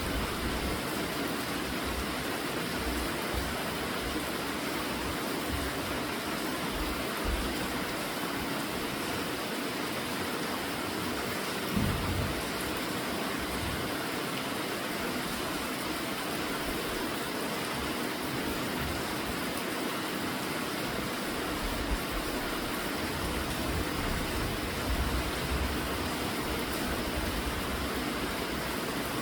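Steady rainfall, an even hiss that does not let up, with short low rumbles now and then and one a little stronger about twelve seconds in.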